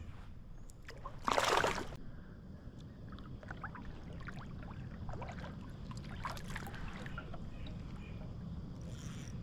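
Water splashing and small knocks and drips around a kayak, with one louder splash about a second and a half in, over a steady low rumble.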